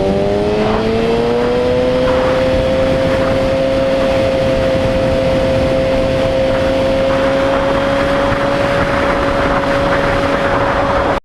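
Motorcycle engine running under way, its pitch rising over the first couple of seconds and then holding steady, with wind noise. The sound cuts off abruptly at the end.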